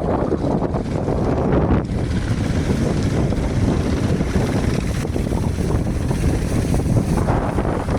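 Wind buffeting the microphone over crashing surf and the running engines of fishing motorboats heading out to sea, a steady loud rumble throughout.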